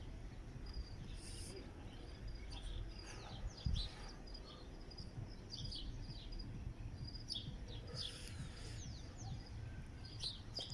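Small birds chirping in many short, quick calls over a low rumble, with one soft thump a little under four seconds in.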